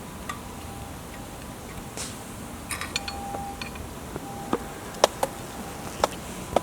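Wood fire crackling: irregular sharp pops and snaps over a steady low hiss, the loudest about five seconds in and again near the end.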